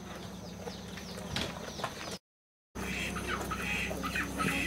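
Birds chirping repeatedly over a steady background hum, with the sound cutting out completely for about half a second midway at an edit.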